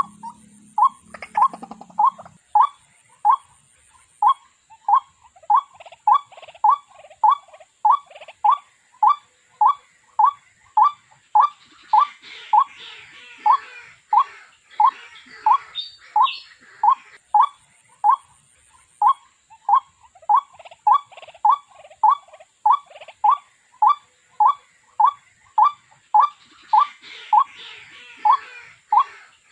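Waterhen (jal murgi) calling: one short, harsh note repeated monotonously, about one and a half a second, with a faint thin whine behind it.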